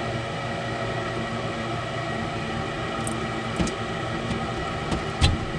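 Trane S9V2 gas furnace's fan motor running with a steady hum and rush of air, with a few sharp clicks and knocks in the last two seconds.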